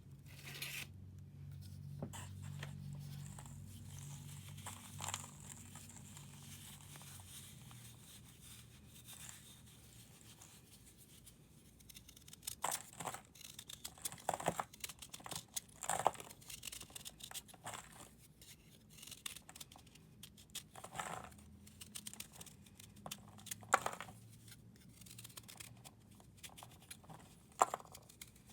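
A dry, brittle material being crushed and crumbled close to the microphone: soft rustling at first with a low hum under it, then from about halfway many irregular sharp crunches and crackles.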